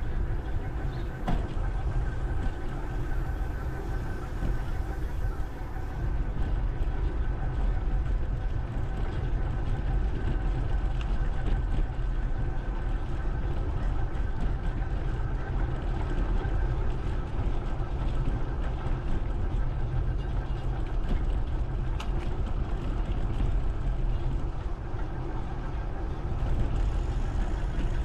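Steady wind rumble on the microphone with road noise from a moving bike, with a few faint steady whining tones above it.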